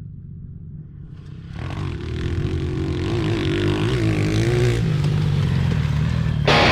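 Pit bike engine running and revving, growing louder about a second and a half in, its pitch rising and falling with the throttle. Music with guitar cuts in at the very end.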